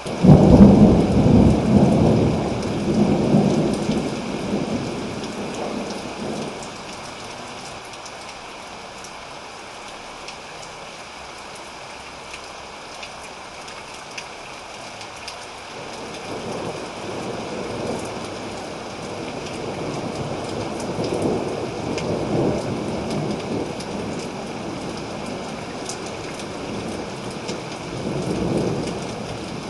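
Thunderstorm: steady rain with a loud crack of thunder right at the start that rumbles away over about six seconds, then a second, quieter roll of thunder that builds and swells through the second half.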